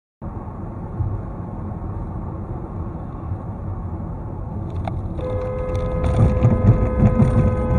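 Steady road and wind rumble of a moving car, then a car horn starts about five seconds in and is held as one long, steady blast.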